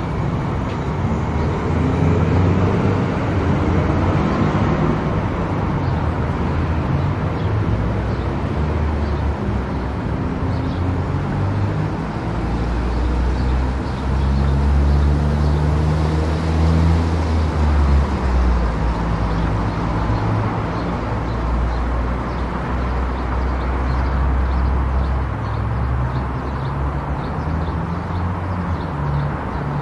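Car driving on a highway: steady road and tyre noise under a low engine drone that shifts in pitch every few seconds.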